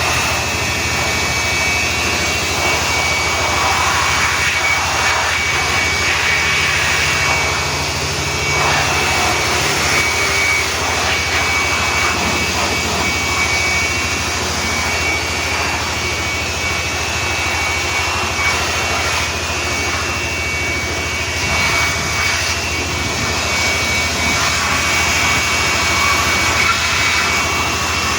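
Car wash machinery running steadily: a loud rushing hiss with a constant high-pitched whine over it, the hiss swelling and easing now and then.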